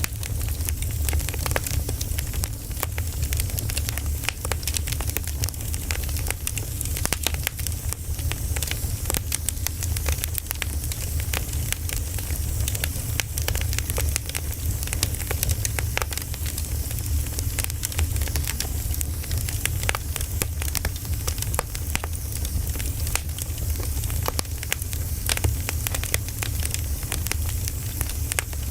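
Firewood burning: a steady low rumble and hiss with frequent, irregular sharp crackles and pops.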